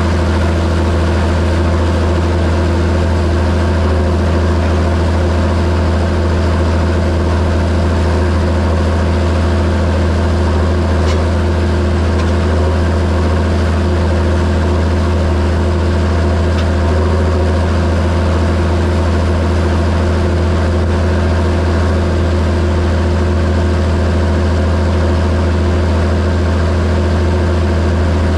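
John Deere 7730 tractor's six-cylinder diesel engine running steadily at constant speed, a deep even hum with no revving.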